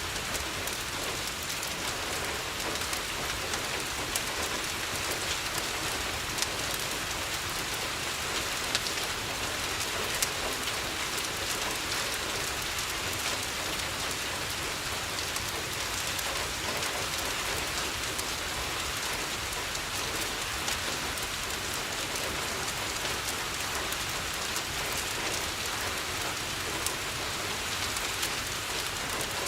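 Steady rain falling on a window, with a crackling fireplace giving occasional sharp pops a few seconds apart.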